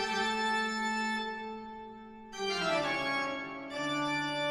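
Short organ intro jingle: three held chords, the second sliding down in pitch, the last left ringing.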